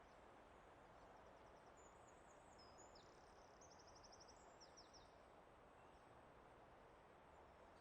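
Faint forest ambience: a steady soft hiss with a few thin, high bird chirps and quick trills between about one and five seconds in.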